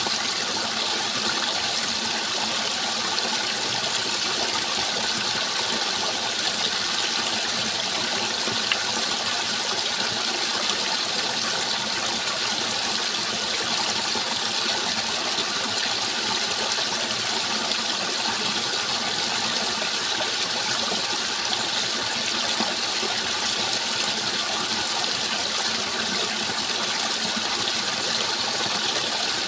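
Steady rushing water, an even, unbroken hiss with no pauses or changes.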